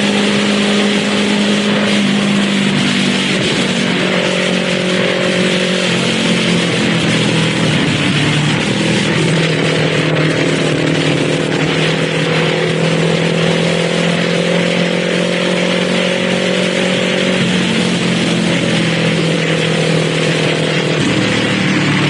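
Kawasaki Z400's parallel-twin engine running under way, its pitch stepping down and rising again several times as the revs change, over heavy wind rush.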